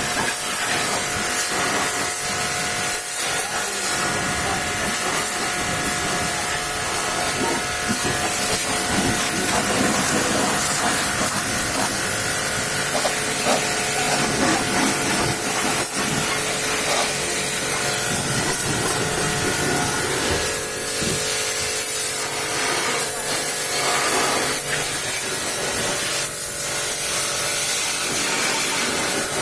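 High-pressure washer jet spraying water in a steady hiss, with a steady machine whine underneath.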